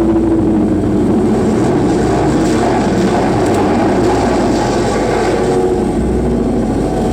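Loud live noise music: a dense, distorted drone with shifting mid-range tones over a low throb that comes about every two seconds.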